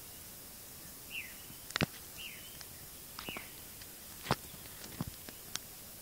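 A bird giving three short, falling chirps about a second apart, with scattered sharp clicks between them; the loudest click comes about four seconds in.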